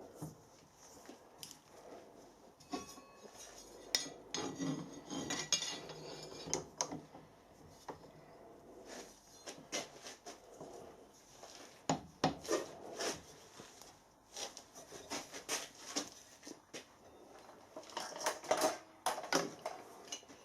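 Irregular light metallic clinks, knocks and scrapes of 4 mm steel plate being handled while the plasma-cut bracket is bent.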